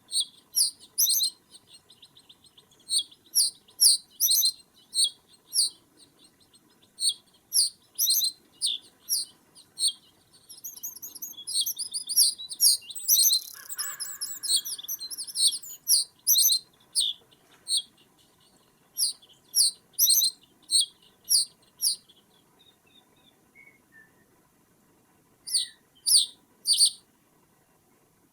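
Birds calling with short, sharp high-pitched notes, often in quick pairs or threes, with a faster twittering stretch about halfway through. The calls pause for a few seconds near the end, then three more follow.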